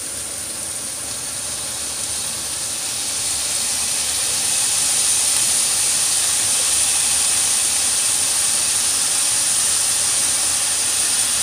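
Onions sizzling in hot oil in a frying pan, a steady hiss that grows louder a few seconds in and then holds.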